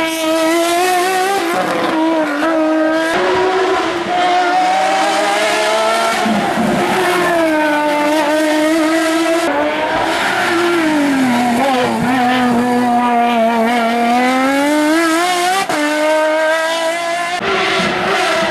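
Race car engine running hard at high revs, its pitch climbing and dropping repeatedly through gear changes and corners, with a long dip in revs and a climb back up partway through.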